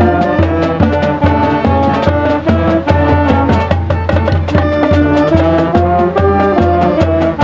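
Marching band playing: brass carrying the melody in held notes over a steady drumline beat with bass drum.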